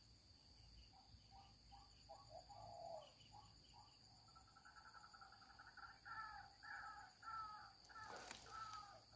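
Faint bird calls: a series of short repeated notes that turns into a quicker run of calls, about two a second, from about four seconds in, over a steady high insect drone. A brief rustle sounds near the end.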